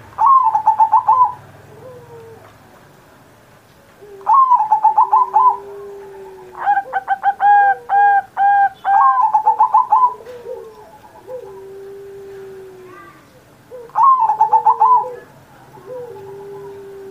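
Zebra dove (perkutut) cooing in repeated phrases. Each phrase is a quick run of loud stuttered notes followed by a longer, lower drawn-out coo. The phrases come about every four seconds, with a longer run of evenly repeated notes in the middle.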